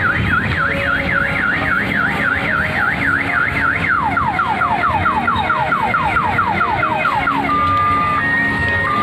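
Electronic siren sound effect from a kiddie ride's speaker. It starts as a fast up-and-down warble of about four cycles a second. About four seconds in it changes to quick falling sweeps, and near the end to a two-tone hi-lo alternation.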